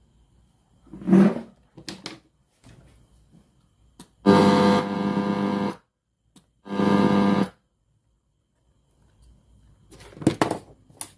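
Sony CFS-515S portable radio being tuned across the band: short snatches of broadcast sound, including held music-like tones, broken by gaps of silence.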